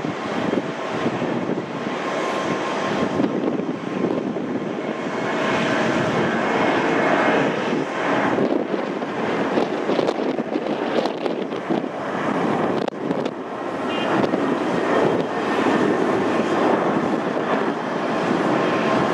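Jet engines of a Boeing 767-300 airliner at takeoff power: a steady roar with a few faint steady tones in it, growing a little louder near the end.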